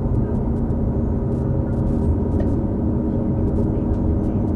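2018 New Flyer XD40 transit bus drivetrain (Cummins L9 diesel with Allison B3400xFE transmission) running steadily, heard from inside: a drone of many steady tones with a ringing quality, which the uploader puts down to odd-sounding transmission bearings. Faint ticks and rattles over it.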